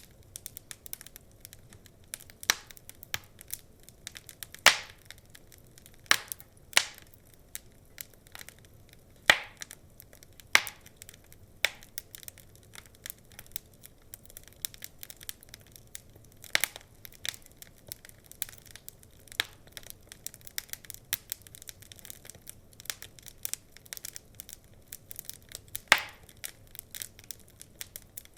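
Wood fire crackling, with many small irregular snaps and a few louder pops, over a faint steady hiss.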